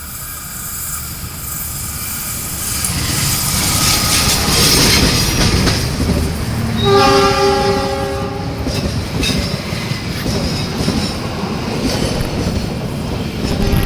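Train passing close, its wheel and rail noise swelling as it nears, with one horn blast of several tones at once about seven seconds in, lasting about a second and a half.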